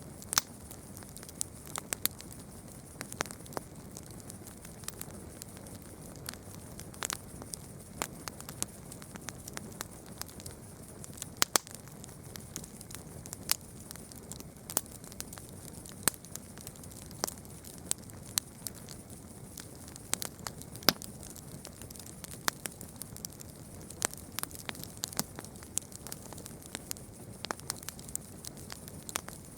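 Campfire crackling: a steady soft hiss dotted with irregular sharp pops, several a second, with a few louder snaps.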